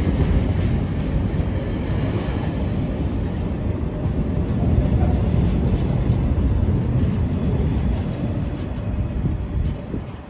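A train passing at speed: a loud, steady rumble of wheels on rail, dying away near the end.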